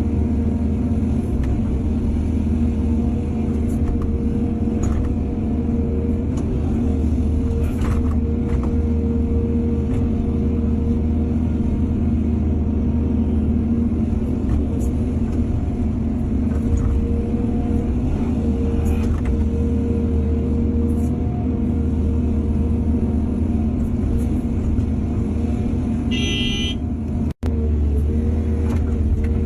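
Heavy diesel engine of an excavator running steadily, with a few faint clanks. A brief high-pitched tone sounds near the end, just before a momentary break in the audio.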